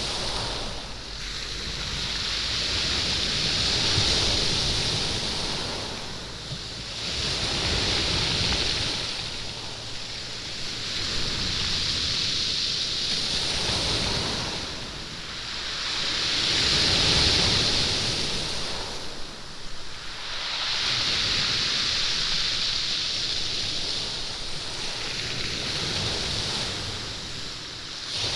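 Waves washing up and back over a stony beach, churning and rolling the stones with a rushing hiss. The surf swells and ebbs in a slow cycle, about one surge every four to five seconds.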